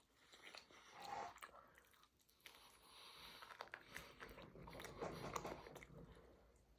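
A person chewing and biting into food, with soft crunches and irregular wet mouth noises, loudest about a second in and again past the middle.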